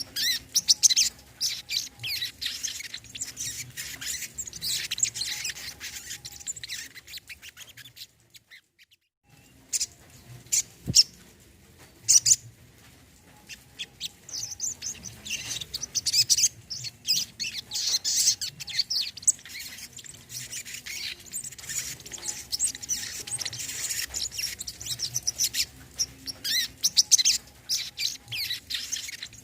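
Brown-throated sunbird (sogon, kolibri kelapa) singing: fast, dense high chirps and trills. The song breaks off briefly about eight seconds in, comes back sparse, then turns dense again.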